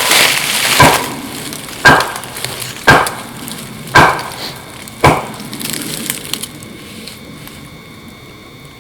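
Wood knocks: a tree trunk struck hard with a piece of wood, about once a second, five or six times, then stopping about five seconds in.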